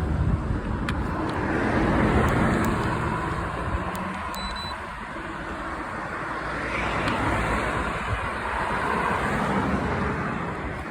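Road traffic going by: a steady wash of tyre and engine noise that swells as vehicles pass, about two seconds in and again in the second half.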